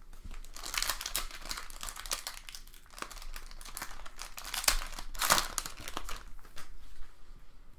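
Foil trading-card pack wrapper crinkling and being torn open, a dense crackle that peaks about five seconds in.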